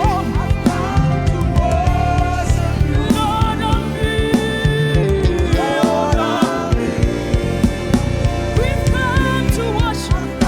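Live gospel worship music: singing, with a choir or congregation joining in, over a band with a steady drum beat.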